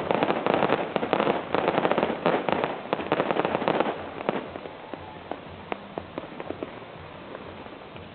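Fireworks going off: a dense, rapid crackle of many small bangs for about four seconds, thinning to scattered single bangs over a steady hiss.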